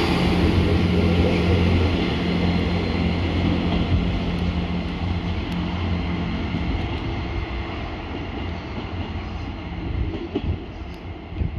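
Diesel multiple unit pulling away from the platform: a steady low diesel engine drone with rail rumble that slowly fades as the train draws into the distance.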